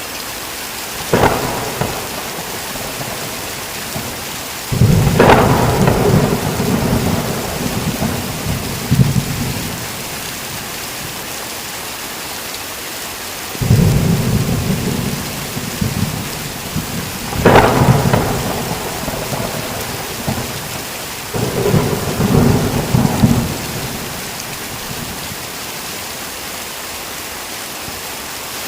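Steady heavy rain with thunder rolling through it: a sharp crack about a second in, long rumbles around five and fourteen seconds in, another crack past the middle, and a last rumble after that.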